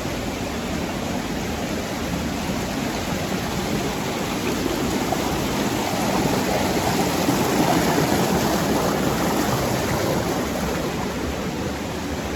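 Mountain stream water rushing over rocks, a steady noise that grows a little louder around the middle and eases off again.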